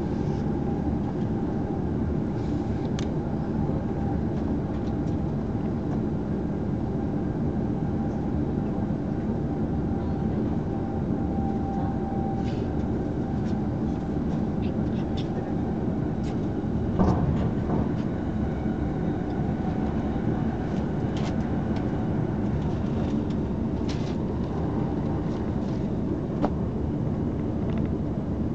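Running noise of a passenger train heard from inside the car: a steady rumble of wheels on rail with faint scattered clicks, a sharper knock about seventeen seconds in and a smaller one near the end.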